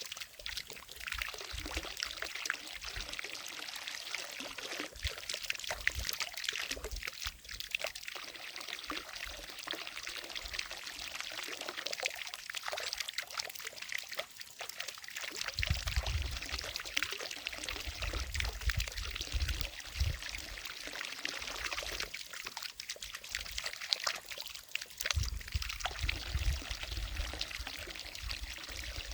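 Water from a fountain falling and splashing steadily into a lake, a continuous rushing pour. A low rumble comes and goes in the second half.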